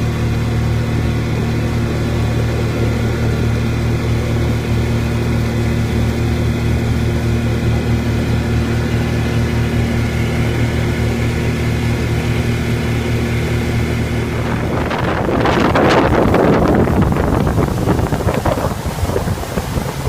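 Motorboat engine running at a steady pitch. About fifteen seconds in the engine note drops away and a louder rushing, splashing noise of water and wind takes over.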